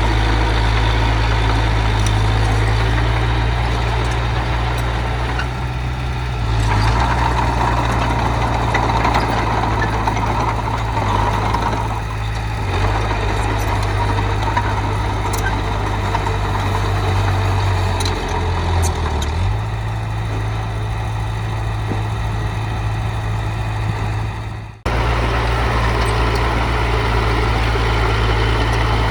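Heavy earthmoving machine's diesel engine running steadily. The sound drops out abruptly near the end, then the engine resumes at once.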